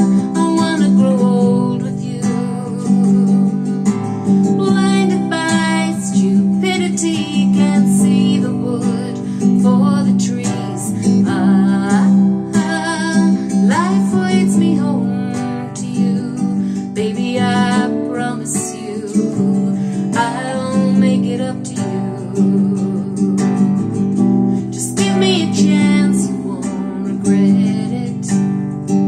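Music: a song accompanied by strummed acoustic guitar, playing steadily.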